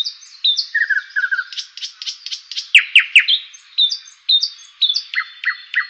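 Songbird chirping and whistling: a steady run of short sharp notes, quick downward-sweeping calls and brief trills, with a cluster of louder calls about three seconds in.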